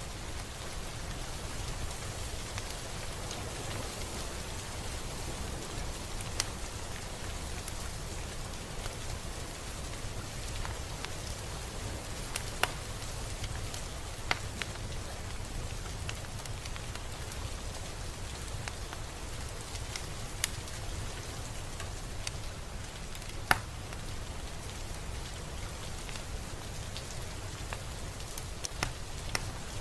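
Steady rain falling, an even hiss with a low rumble underneath and scattered sharp drops ticking close by; one drop hits noticeably louder about two-thirds of the way through.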